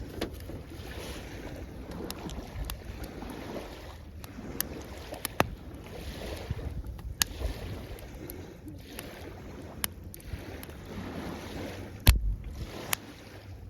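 Small waves washing in on the shore in slow swells, with the sharp crackle and pops of a burning wood campfire; one loud pop about twelve seconds in.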